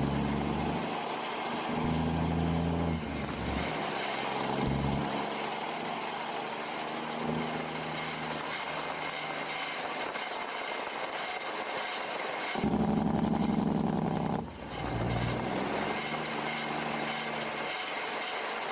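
Big rig diesel engine pulling through the gears, its note stepping as it shifts, with a high turbo whistle rising and falling twice in the first half and a brief drop in sound at a shift near the end.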